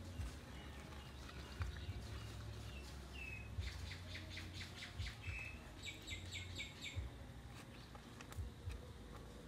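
Small birds chirping: a quick run of repeated high chirps about a third of the way in, then a run of five short descending notes a little later, over faint scattered clicks.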